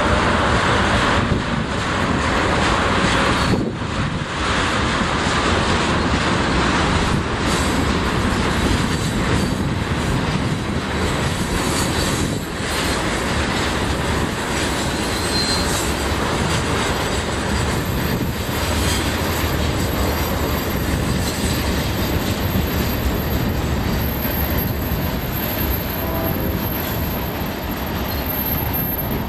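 Freight cars of a Union Pacific manifest train rolling past close by: a loud, steady rumble of steel wheels on rail with clicking over the rail joints. Faint wheel squeal comes and goes.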